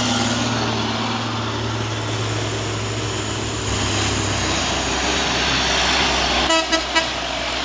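Heavily loaded truck's engine pulling up a steep climb, a steady low drone, with two short horn toots about six and a half seconds in.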